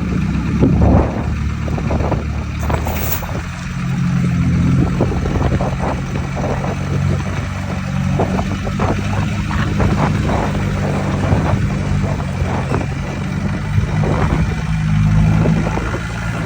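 Forklift engine running steadily, with scattered metal clanks and knocks from the load being moved.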